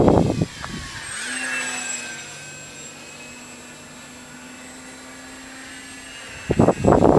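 Multiplex Blizzard RC plane's brushless electric motor and propeller whining. About a second in it passes by and the whine drops in pitch, then it carries on as a steady distant hum. Louder gusts of wind on the microphone cover it at the start and again near the end.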